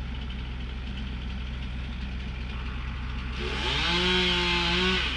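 Chainsaw idling, then revving up about three and a half seconds in and running at high speed for a second or so before dropping back.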